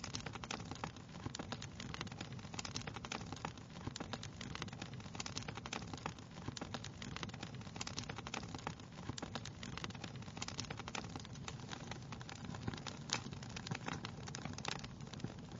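Wood fire crackling: a dense run of small irregular pops and snaps over a low steady rush of flame.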